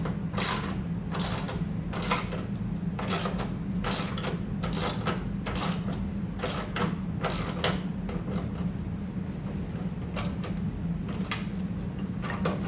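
Socket ratchet wrench loosening the skid shoe bolts on a snow blower: a run of ratchet strokes about two a second that stops about eight seconds in, then a few more strokes near the end. A steady low hum runs underneath.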